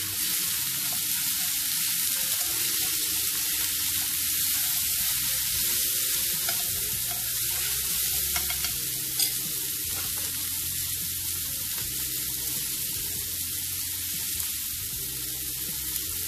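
Sliced green chilies, garlic and shallots sizzling steadily in hot oil in a frying pan as they are stirred with chopsticks, sautéed until the chilies wilt. A few light ticks of the utensil against the pan, the sharpest a little past halfway.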